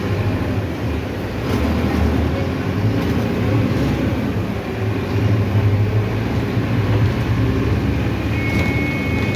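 Mercedes-Benz OF-1519 city bus engine running as the bus drives along, heard from on board, a steady low drone that swells a little at times. A steady high-pitched beep comes in about 8 seconds in.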